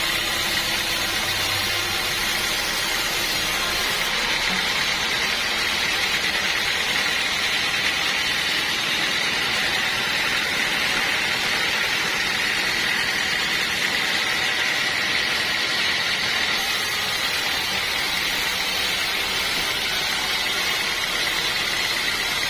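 Sawmill machinery running steadily: a continuous mechanical drone with a high hiss and a constant whine, with no breaks or knocks.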